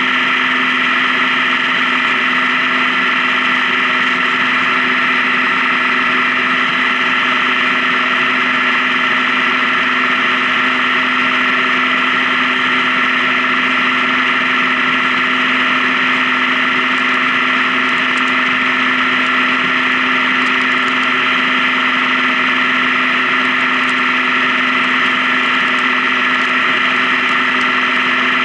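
Honda Gold Wing motorcycle engine running steadily at an even cruising speed, its pitch holding constant with no change in throttle.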